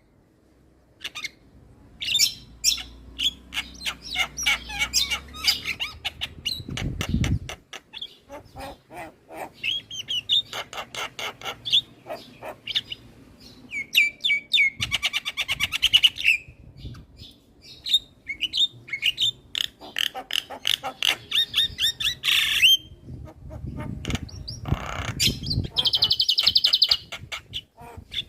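Javan myna singing a long, varied chattering song of rapid clicks, whistles and buzzy trills, broken by short pauses. Two low thumps come in, about a quarter of the way through and again near the end.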